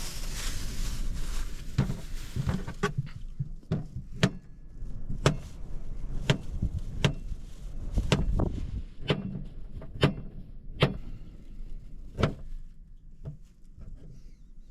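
Wind noise at first, then a string of sharp knocks or taps, roughly one a second and uneven in spacing, growing fainter near the end.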